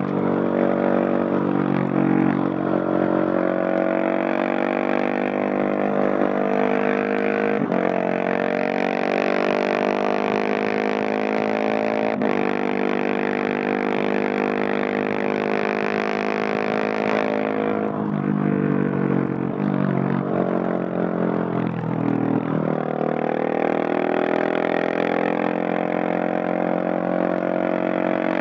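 Husqvarna 701 Supermoto's big single-cylinder four-stroke engine through a Leo Vince Nero stainless exhaust, pulling through the gears with the pitch dropping at each shift. About two-thirds in it eases off and drops low, then accelerates again near the end, heard without wind noise from the rider's backpack.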